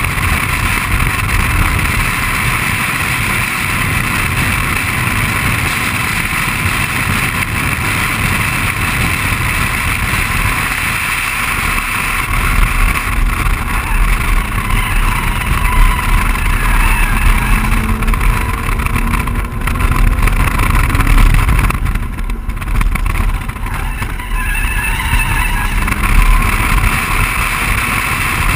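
A BMW 135i's turbocharged straight-six runs hard on track, heard from inside the cabin under steady wind and tyre noise. The sound briefly dips about three quarters of the way through before picking up again.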